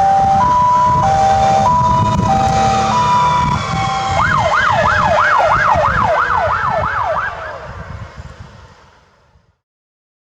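Fire engine's Whelen electronic siren running a two-tone hi-lo pattern, then switching about four seconds in to a fast yelp sweeping up and down two to three times a second, over the low rumble of the truck's engine. The sound dies away over the last few seconds.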